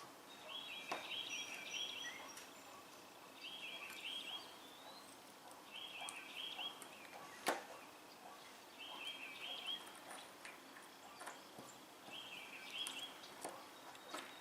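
Small sharp clicks of hydraulic lifter parts being handled and fitted together, with one louder click about halfway through. A bird chirps in the background in short phrases of three or four quick notes, repeating about every two seconds.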